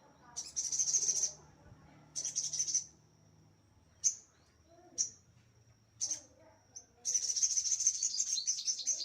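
A sogon sunbird singing hard: bursts of high, rapid chattering song, sharp single chips, and a long fast trill near the end.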